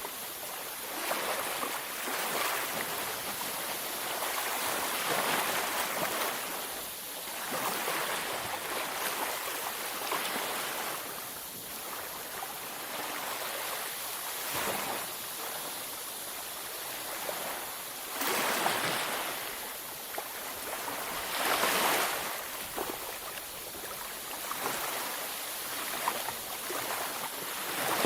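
Sea waves breaking and washing on a beach, a continuous hiss of surf that swells every few seconds as each wave comes in.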